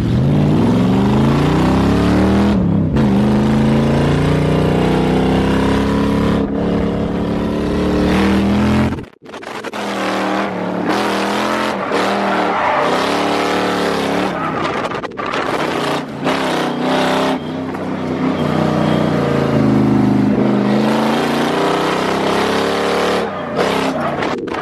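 Lexus LS400's 1UZ V8 engine revving up and down hard through a drift run, the pitch rising and falling over and over. The sound drops out briefly about nine seconds in, then the engine carries on with more hiss over it.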